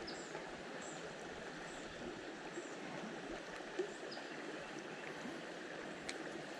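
Creek water running, a steady rushing babble, with a single click about four seconds in and a few faint short high chirps.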